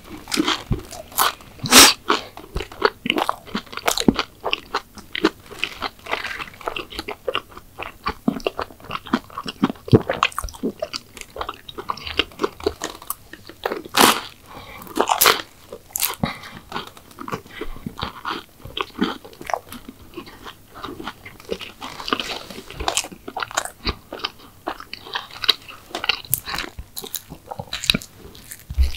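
Close-miked eating: crisp bites and crunchy chewing of pastry-type sweets, a dense run of irregular crackling and clicking mouth sounds with a few louder bites.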